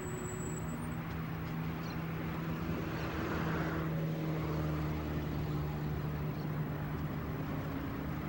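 Diesel locomotive engine running with a steady low hum, a little louder about three to five seconds in.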